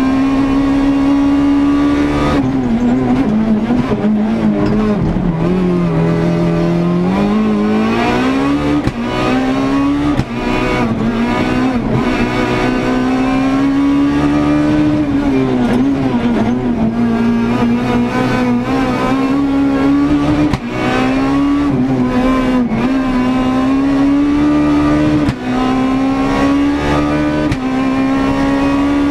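Renault Clio S1600 rally car's 1.6-litre four-cylinder engine at racing pace, heard from inside the cockpit. It revs up and down through the gears, the note dropping lowest a few seconds in before climbing again, with several brief dips in level.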